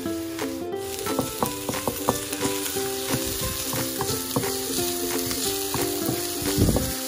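Chopped garlic and onion sizzling in oil in a non-stick wok, stirred and scraped with a wooden spatula in frequent light ticks, over background plucked-string music.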